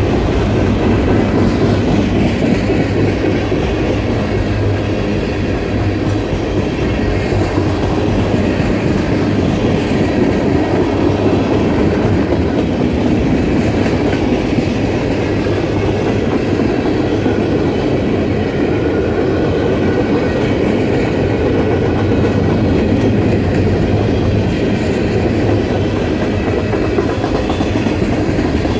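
Freight cars, tank cars and covered hoppers, rolling past on steel wheels in a steady, continuous rumble, with a dense patter of wheel clicks over the rail joints.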